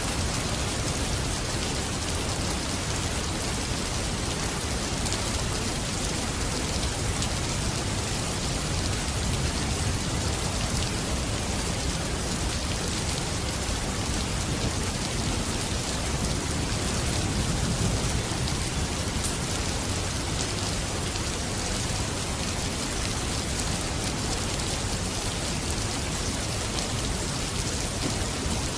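Steady heavy rain falling, an even hiss with a low rumble underneath that swells slightly a little past halfway.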